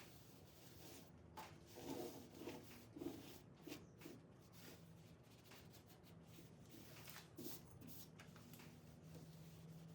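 Near silence: faint room tone with a few soft clicks and short faint sounds.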